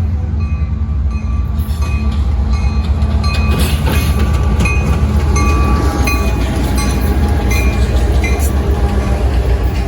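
A train rolling past with a loud, steady low rumble, its wheels giving short high-pitched squeaks over and over, with occasional clicks.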